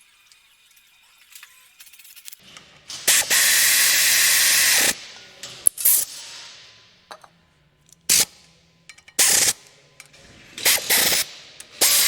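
Impact wrench running in the flex plate bolts on an engine's crankshaft in short rattling bursts: one long burst about three seconds in, then several shorter ones.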